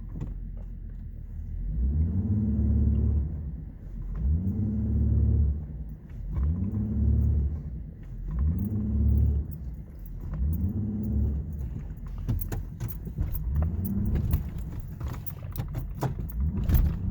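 Ford Ranger pickup engine revving up and easing off again and again, about once every two seconds, as the truck is rocked forward and back to break free of deep snow. From about twelve seconds in, a rapid clicking rattle joins the engine.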